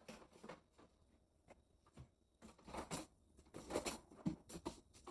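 Light kitchen handling sounds while cooking: scattered soft clicks, taps and rustles, busiest a little past the middle.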